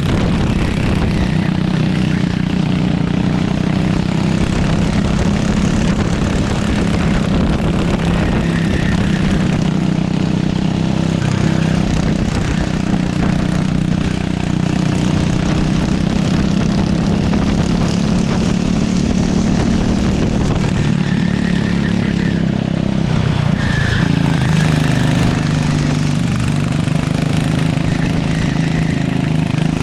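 Go-kart engine running steadily, its pitch holding fairly even with small rises and dips.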